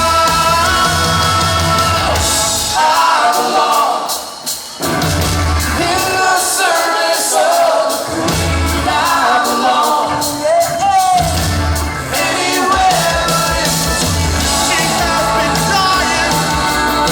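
Live rock band playing with a singer's voice over the top. The bass and drums thin out for several seconds in the middle, then the full band comes back in about eleven seconds in.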